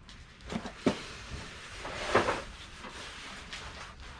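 Household items being handled and rummaged through in a box: a few knocks and clatters, one sharp knock about a second in and a longer clatter about two seconds in, with rustling between.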